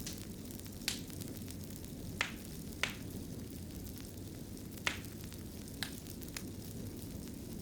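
Wood fire burning in a fireplace: a steady low rumble of flames with sharp crackles and pops at irregular intervals, about seven of them.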